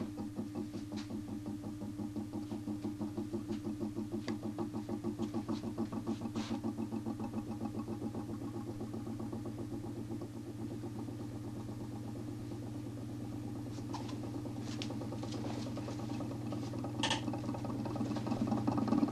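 DC motor spinning a 40 cm plywood Nipkow disc: a steady hum with a regular throb that evens out after several seconds. A few faint clicks are scattered through it.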